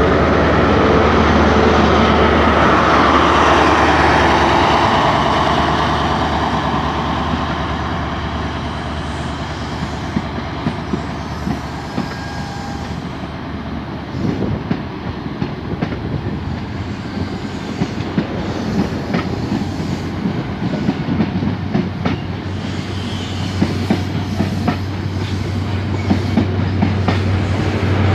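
Train running along the track, loudest in the first few seconds, then wheels clicking over rail joints over a steady low hum through the rest.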